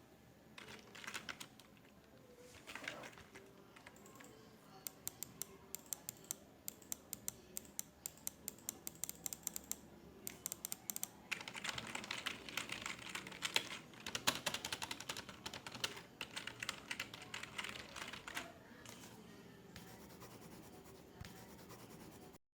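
Computer keyboard typing in quick bursts of key clicks with short pauses between, busiest in the middle, over a faint office room background; the sound drops out abruptly just before the end.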